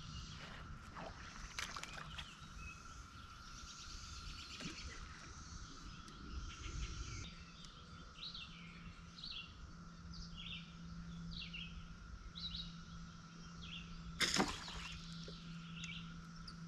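Small birds chirping in short repeated calls over faint steady outdoor background noise, with a low steady hum joining about halfway through. About fourteen seconds in there is one brief, sharp rush of noise, the loudest thing in the stretch.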